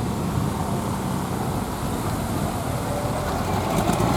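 A car engine running steadily at low revs, over a steady hiss.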